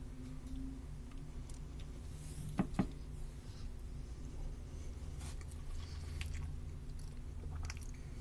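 A person chewing a mouthful of cheese hot dog over a low steady kitchen hum, with two sharp clicks about two and a half seconds in and a few fainter clicks later.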